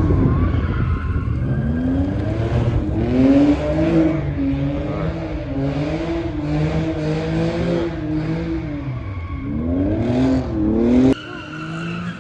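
Car engine revving up and down repeatedly over a steady low exhaust rumble; the sound cuts off abruptly about eleven seconds in.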